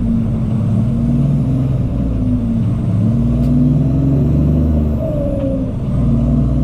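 Cummins ISX diesel in a Peterbilt 379 truck running under way, its engine note rising and falling, with a dip about five seconds in before it picks up again.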